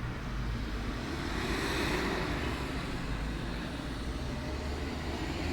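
A vehicle passing by, swelling to its loudest about two seconds in and then fading, over a steady low rumble.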